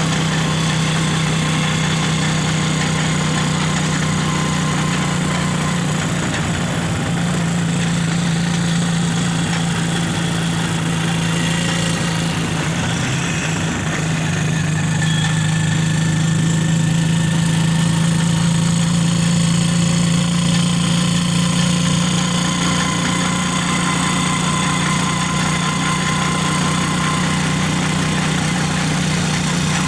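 A vehicle's engine running at a steady speed, a continuous low hum that grows slightly louder about halfway through.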